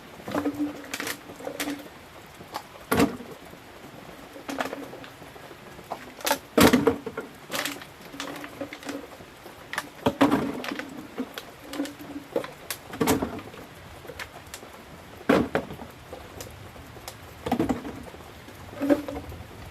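Sharp strikes of a weeding tool on the ground every two to three seconds over a steady hiss of heavy rain. A bird coos in short low phrases between the strikes.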